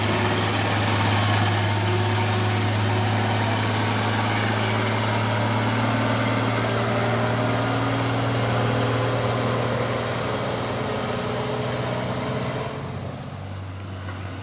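Heavy truck's diesel engine running nearby, a steady low engine note with plenty of noise over it. It eases off and gets quieter near the end.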